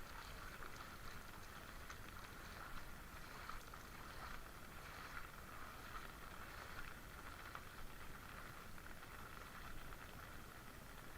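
Floodwater moving, a steady, faint hiss of running water.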